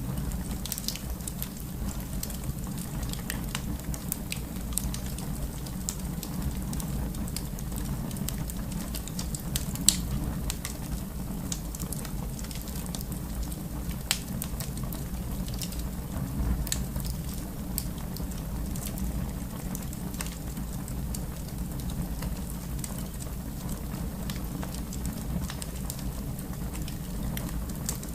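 Fire in a fireplace crackling: a steady low rumble with scattered small pops, and a louder pop about ten seconds in and again about fourteen seconds in.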